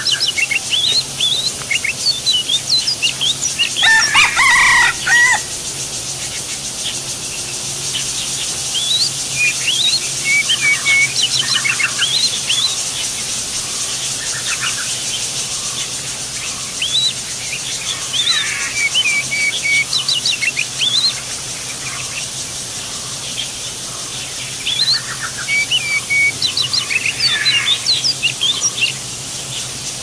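Birds chirping in repeated clusters of quick, high, falling notes, with a louder, lower call about four seconds in, over a steady high hiss.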